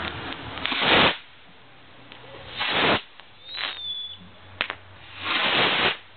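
Fireworks going off: four loud bursts of noise, each swelling and then cutting off sharply, with a sharp crack and a short whistling tone around the middle.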